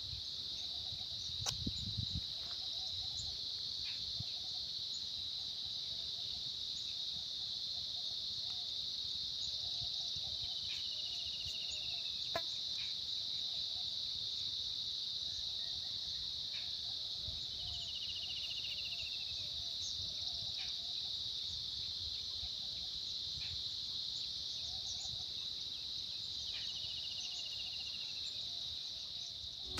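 Steady, high-pitched drone of crickets or other insects, with a short bird call falling in pitch three times, each about eight seconds apart.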